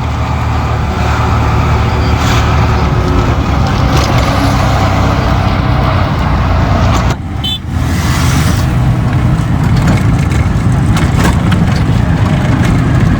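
Steady rumble of a road vehicle on the move, heavy low road and wind noise, with a short dip about seven seconds in.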